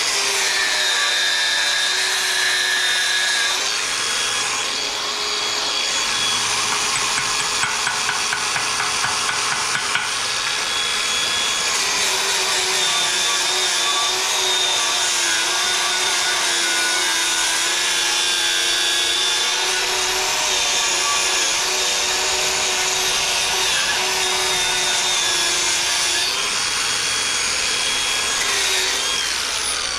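Angle grinder grinding steel on a weld, its motor whine wavering as it is pressed into the work. It is switched off near the end and winds down with a falling whine.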